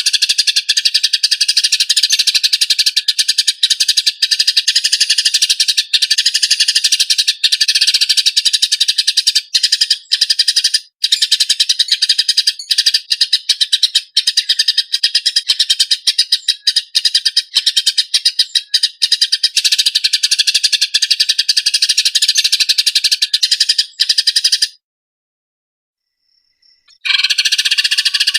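Eurasian tree sparrows in a fast, harsh, close-packed chatter of chirps, the calls of sparrows fighting. It breaks off for about two seconds near the end, then starts again.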